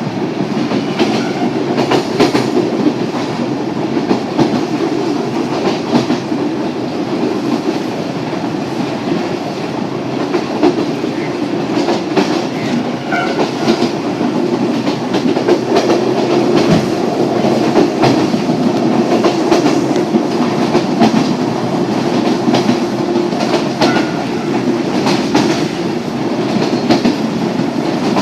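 Yōrō Railway train running, heard from inside the carriage: a steady rumble of wheels on rail, with the clickety-clack of the wheels over rail joints.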